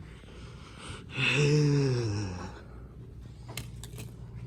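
A man's breathy, drawn-out vocal sigh, falling in pitch, about a second in. A few short sharp clicks follow near the end.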